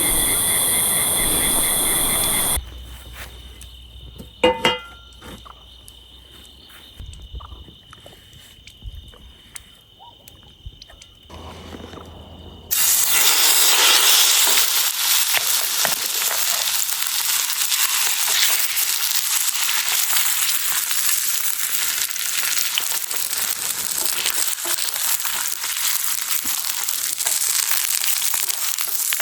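Food sizzling and crackling in a hot pan, a steady hiss that starts abruptly about thirteen seconds in. Before it comes a quieter stretch of outdoor ambience with a steady high insect-like tone and a brief chirp.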